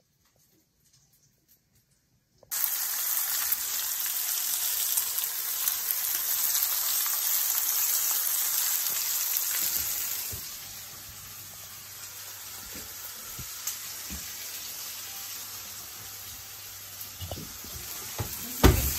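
Sirloin steaks sizzling on a ridged griddle pan, with mushrooms frying in butter beside them. The sizzling starts suddenly after about two and a half seconds of near silence and drops to a softer hiss with a low hum about halfway through. There are a few knocks near the end.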